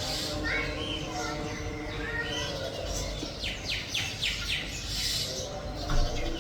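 Oriental magpie-robin singing: short whistled phrases, then a quick run of about five sweeping notes a little past the middle. A brief thump comes near the end.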